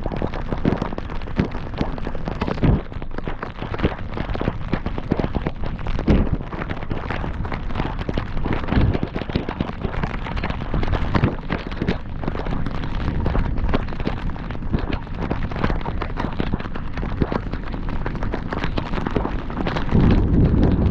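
Heavy rain during a drive: a steady rushing noise broken by frequent irregular sharp pops and thumps, with a louder low rumble swelling near the end.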